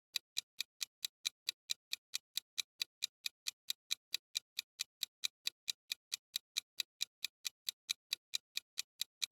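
Clock-ticking countdown sound effect: evenly spaced sharp ticks, about three a second.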